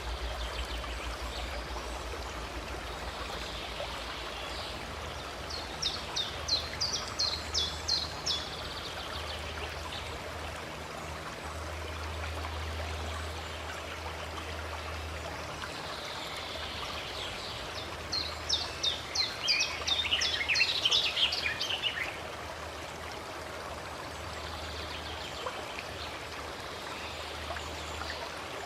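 Running stream water flowing steadily, with birds singing: two bursts of rapid, high repeated notes, about 6 to 8 seconds in and again about 18 to 22 seconds in, louder than the water.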